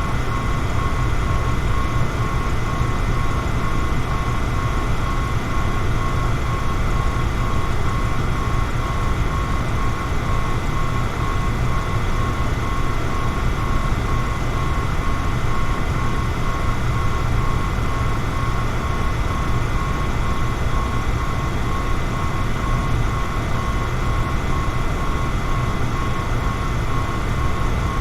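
Electric fan running steadily: an even low whir with a thin, steady high tone over it.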